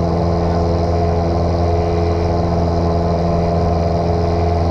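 Single-engine piston airplane's engine and propeller droning steadily at constant power, heard inside the cockpit.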